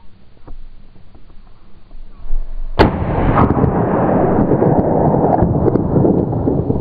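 A single rifle shot a little under three seconds in, followed at once by several seconds of loud, rough, continuous noise.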